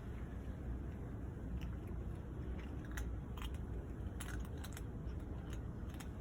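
A kitten eating, its chewing heard as irregular sharp clicks over a steady low rumble.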